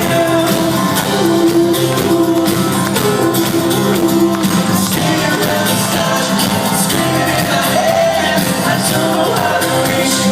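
Rock band playing loudly in a live concert, with a singer's voice over the band.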